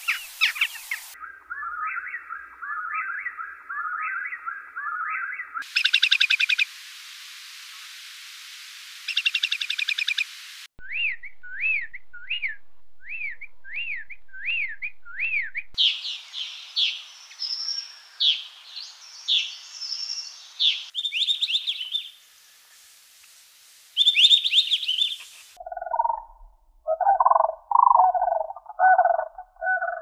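Songs and calls of several different birds spliced one after another, the bird changing every few seconds: quick chirps and trills, a run of repeated rising-and-falling whistled notes, and near the end lower, harsher calls.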